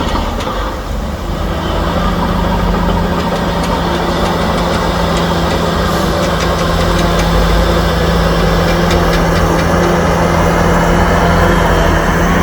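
Heavy diesel engine of earthmoving machinery running steadily with a constant low drone, dipping briefly about a second in.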